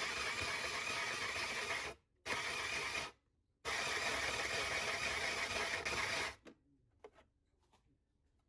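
A small electric motor, like a kitchen appliance's, running steadily in three bursts: a long one, a short one, then a longer one about half a second later, each switched on and off abruptly. A few faint clicks follow.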